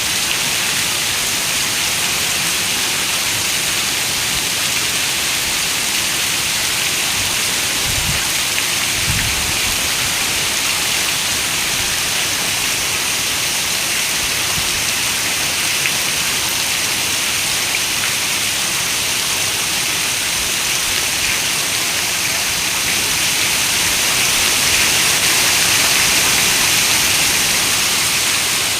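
Heavy rain falling steadily in an even hiss, with two brief low thumps about eight and nine seconds in, and swelling a little louder near the end.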